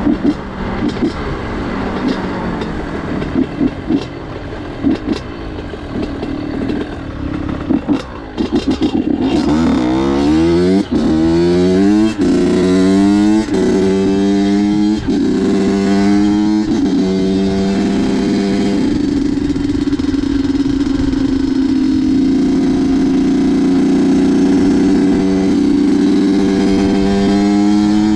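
Two-stroke Honda CR dirt bike engine on the move: for the first several seconds it runs low and uneven with crackles, then it revs up through about five gear changes, each rise in pitch dropping back at the shift, and settles into a steady cruise.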